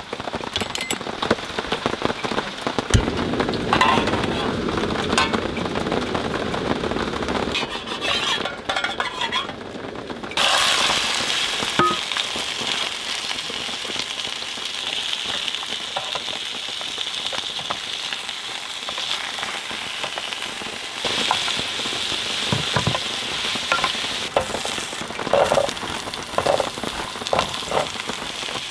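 Food sizzling in a hot pan, with stirring and utensil clicks. The sizzle jumps up suddenly about a third of the way in, eases off in the middle and comes back stronger later.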